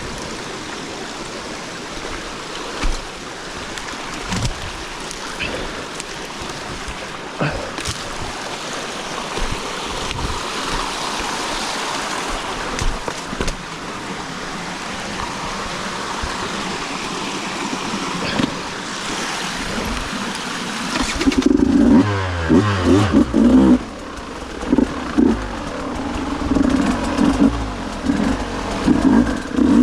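A steady rushing noise for the first twenty seconds or so. Then, about 21 seconds in, a two-stroke dirt bike engine starts running loud and is revved in short bursts of throttle.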